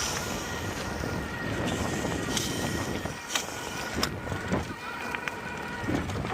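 Wind rushing steadily over the microphone of camera glasses while riding an electric bike, with a few sharp clicks in the middle.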